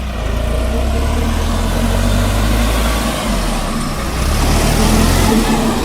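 Diesel tractor engines running hard under heavy load as two tractors pull against each other, a loud low steady drone that swells about four seconds in.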